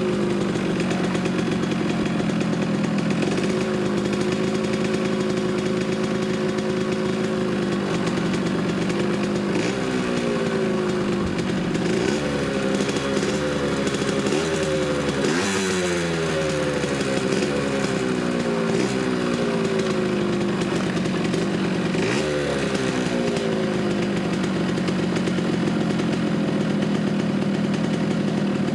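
Small 50cc two-stroke single-cylinder motorcycle engine (Yamaha RD50 unit in a GR50) running under way, revving up sharply several times and falling away in pitch between, with steadier stretches.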